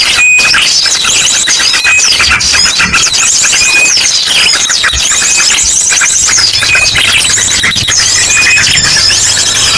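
Bird-lure recording: a loud, dense jumble of many small birds chirping and chattering at once, mixed with rapid trilled calls and short whistles of an ashy drongo.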